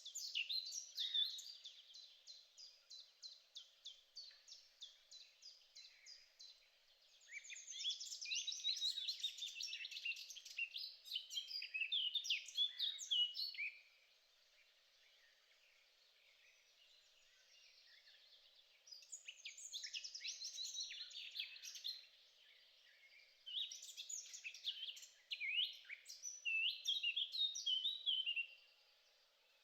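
A songbird singing in separate phrases of quick high chirps and trills, with pauses of a few seconds between them. The first phrase is a run of evenly repeated notes that fades away.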